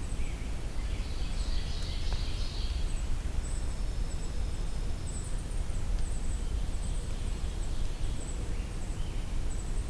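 Brown creeper singing and calling: a short jumble of high, thin notes about a second in, then a run of very high, faint short notes repeating through the rest. A steady low background rumble runs underneath.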